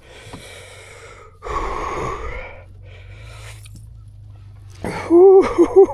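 A man breathing hard in three long, gasping breaths, out of breath with excitement after landing a big fish. Near the end he lets out a loud, broken whoop.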